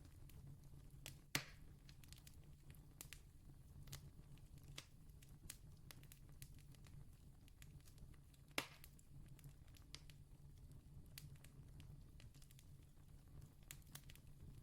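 Campfire crackling faintly: scattered small pops, with two louder snaps about a second and a half in and again near eight and a half seconds, over a steady low hum.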